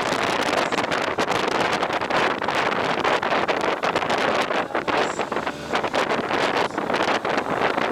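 Heavy wind buffeting the microphone: a dense rushing noise broken by constant uneven gusts and thumps, as from riding at speed.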